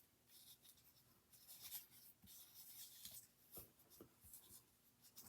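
Faint rustling and rubbing of paper scraps being handled and slid across the table, with a few soft taps.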